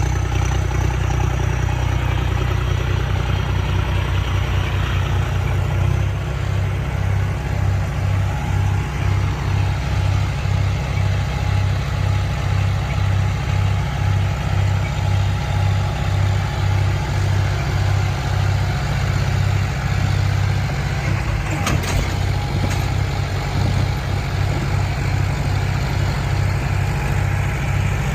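Tractor diesel engine running steadily at idle, a low hum that settles into a throbbing beat about once a second a few seconds in. A couple of brief clicks sound about two thirds of the way through.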